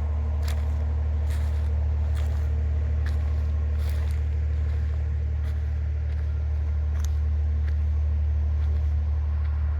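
Steady low drone of a vehicle driving, as heard from inside a car, with a few faint clicks scattered through it.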